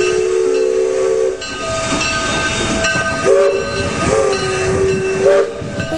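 Electric passenger train sounding its horn in a steady held chord, then running past close by with a loud rushing noise; the horn sounds again for about two seconds from around three seconds in.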